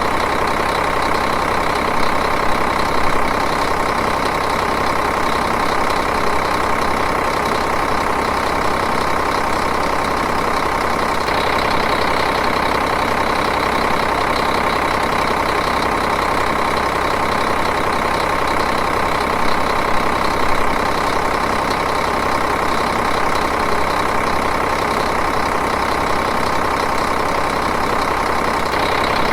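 Diesel engine idling steadily, an even continuous running sound with a few slight swells in loudness.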